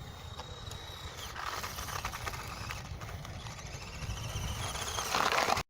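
Small toy RC monster truck running over rough ground: a thin high whine in the first second or so, then irregular clattering, loudest near the end before the sound cuts off suddenly.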